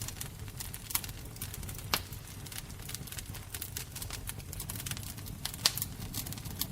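Fire crackling and popping over a low steady rumble, with sharper pops about one, two and nearly six seconds in.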